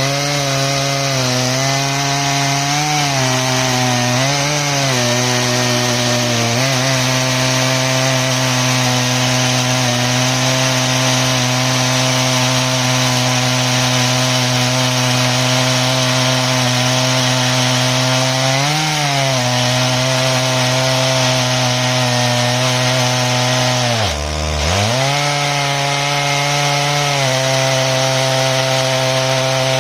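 Stihl MS 881 two-stroke chainsaw running at high revs under load while ripping an ash log lengthwise in an Alaskan chainsaw mill. The engine note is steady, dipping slightly in pitch a few times as the cut loads it, and drops sharply once about three-quarters of the way through before picking back up.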